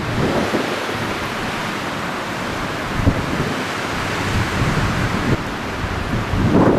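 Wind rushing and buffeting the microphone in a steady, noisy roar, with a brief knock about three seconds in.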